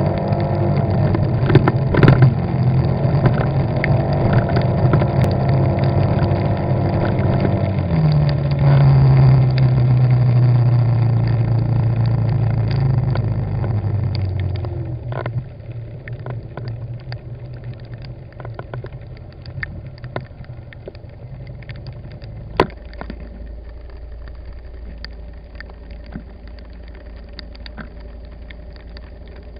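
Car engine and road noise heard from inside the car. The engine drops in pitch about eight seconds in, then falls away to a quiet low hum after about fifteen seconds, as the car slows and stops. Scattered small ticks and one sharper click come later.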